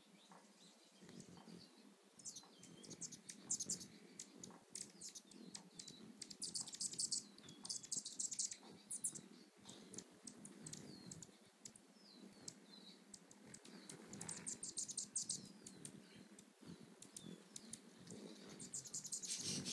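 Hummingbirds feeding close by: many short, high chip calls and clusters of buzzy chattering, over the low fluttering hum of their wings.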